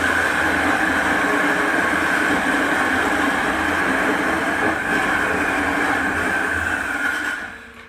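Power drill running a 2 1/4-inch Lenox hole saw, cutting a shallow recess into a door with a steady whine. It stops about seven and a half seconds in.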